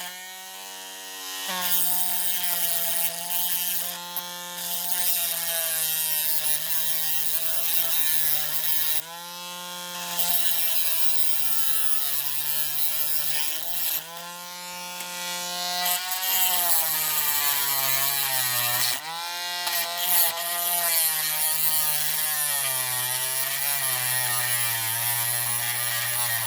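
A small handheld electric rotary tool running, its whine sagging and wavering in pitch as it is pressed into the die-cast metal. It eases off briefly several times and picks up again.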